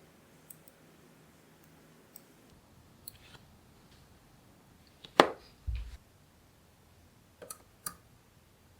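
Small magnetic balls clicking as they snap together, a few faint clicks at first. About five seconds in comes a loud sharp snap followed by a dull knock, then two more clicks near the end.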